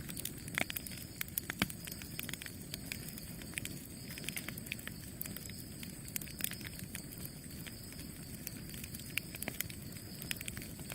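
Campfire wood burning, crackling with irregular sharp pops and snaps over a steady low rush of the flames.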